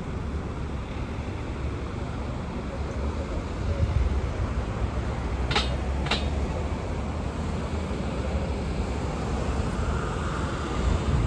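Street traffic: the steady low rumble of passing vehicles' engines and tyres, with two short sharp ticks about half a second apart halfway through.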